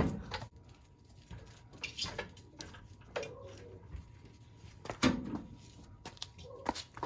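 Scattered knocks, clicks and clatter of objects being handled, with a loud knock at the start and another about five seconds in.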